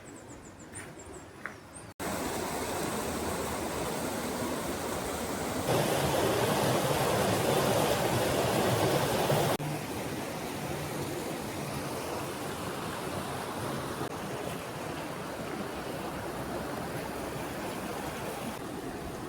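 Steady rush of flowing stream water, louder for a few seconds in the middle, with a few short bird chirps before it during the first two seconds.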